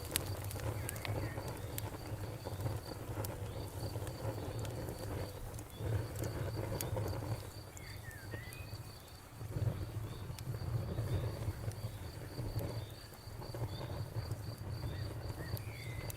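Campfire crackling, with scattered sharp pops over a steady low rumble of flames, while crickets chirp steadily in a fast, even pulse throughout.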